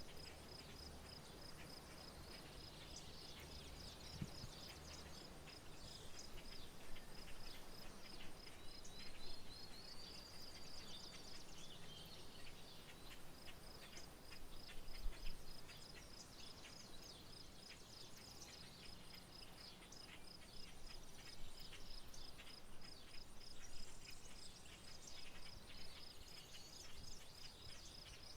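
An insect's high, evenly pulsing trill over a quiet outdoor background, with songbirds chirping now and then. About ten seconds in, a bird gives a rising whistled phrase.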